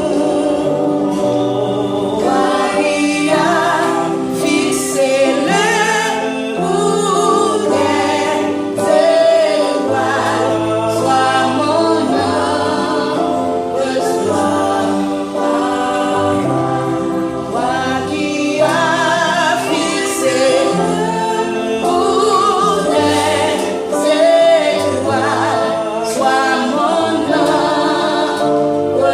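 Group of children singing a gospel song together, one continuous sung passage with no break.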